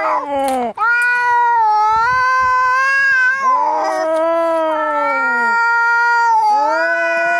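Cats yowling in a fight: long, drawn-out, wavering yowls of about three seconds each, one after another, with the calls briefly overlapping where one gives way to the next.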